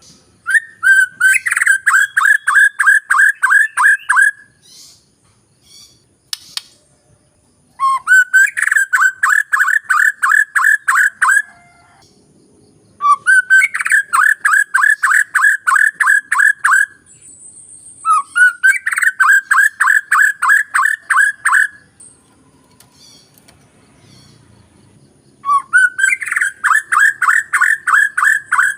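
White-rumped shama (murai batu) song played as a lure: five bursts of one fast note repeated on the same pitch, each opening with a short upward sweep and lasting a few seconds, with short pauses between.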